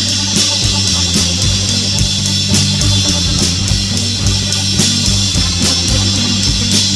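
Rock band playing an instrumental stretch of a song: guitars and bass over a drum kit keeping a steady beat, with no singing.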